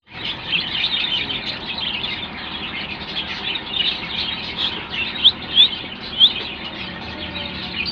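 Several caged parrots chirping and chattering continuously, with three loud, sharp rising chirps a little past the middle.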